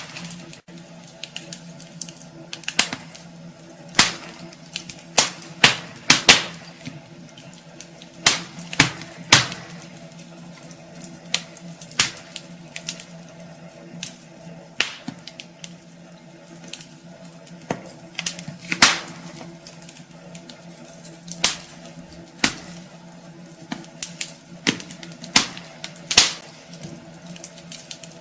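Wood fire burning in a fireplace, crackling with irregular sharp pops, a loud one every second or two and smaller crackles between, over a faint steady hum.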